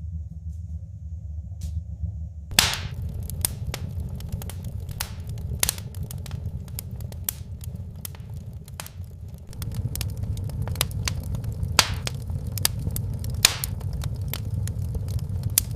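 Firewood crackling and popping in a small wood-burning stove: irregular sharp pops over a steady low rumble of the fire. The first loud pop comes about two and a half seconds in, and pops come often after that. The rumble gets louder about ten seconds in.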